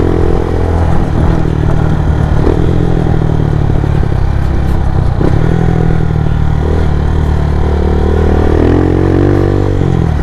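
Motorcycle engine running while riding, its pitch shifting as the speed changes and rising near the end as it revs up.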